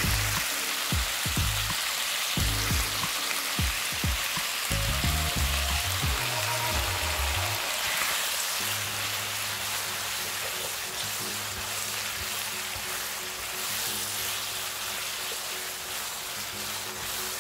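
Cabbage, potato and pork sizzling in a frying pan as black bean paste (chunjang) is stir-fried in with a spatula, with knocks of the spatula in the pan during the first half. Soft background music comes in with steady held notes about halfway through.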